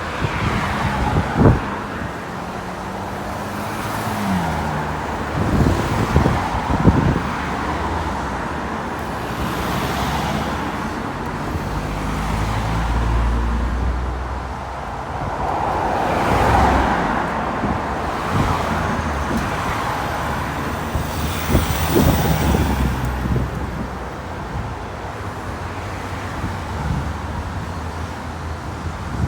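Road traffic of cars and buses going by one after another, each pass swelling and fading over a steady hiss of tyres, with engine hum and a heavier low rumble about halfway through.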